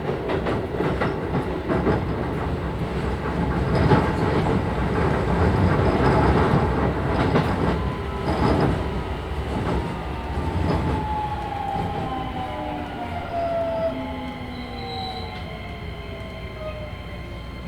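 Keisei 3000 series electric train heard from inside the car. Wheels clatter over rail joints in the first half. From about ten seconds in, the Toyo IGBT-VVVF inverter and traction motors whine with several tones sliding steadily down in pitch as the train brakes and slows.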